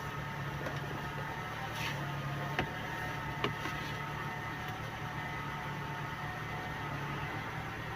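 Honda CR-V engine idling steadily with a low hum and a faint whine, and two light clicks a second apart early on.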